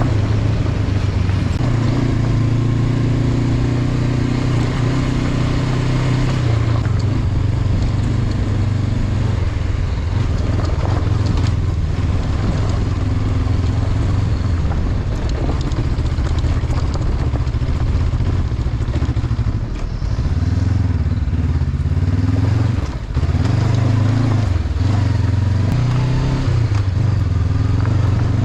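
Honda CB500X parallel-twin engine running under way, its note steady for stretches, fading back through the middle and picking up again, with a brief drop near the end as the throttle eases off.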